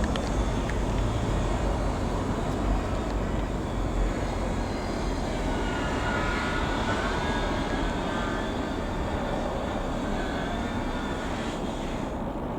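Ikarus C-42 FB80 microlight's Rotax 912 piston engine and propeller droning as it flies past, with a faint whine that comes and goes around the middle.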